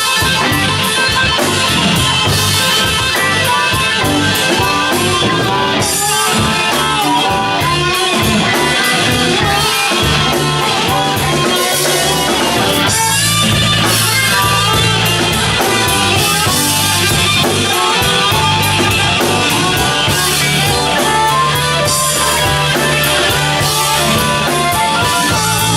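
Live blues band playing an instrumental passage: electric guitar over bass and a drum kit.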